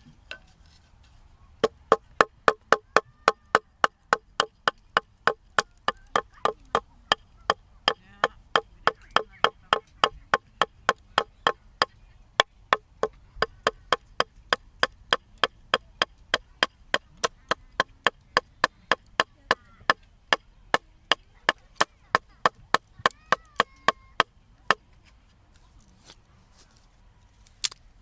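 Firewood being split: sharp chopping knocks struck into wood in a steady rapid rhythm, about three a second. They stop about 25 seconds in, and two more strikes come near the end.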